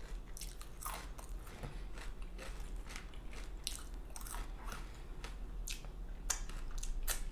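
Close-miked chewing of crispy bacon, with many short crunches and crackles through the bite.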